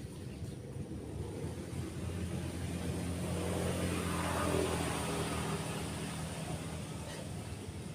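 A motor vehicle passing by on a nearby road: its engine grows louder to a peak about halfway through, then fades away. Steady surf from breaking waves continues underneath.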